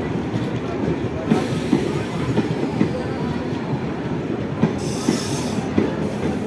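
Train running on rails, its wheels clattering and knocking over the track, with a short high hiss about five seconds in.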